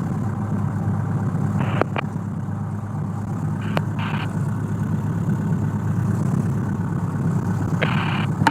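Cessna 172's piston engine idling steadily in the cockpit. A few brief bursts of hiss and sharp clicks cut in about 2 s, 4 s and 8 s in.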